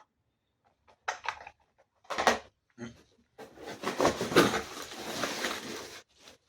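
Unboxing handling noise: a few short knocks and clicks, then a longer stretch of rustling and scraping as packing material is moved about.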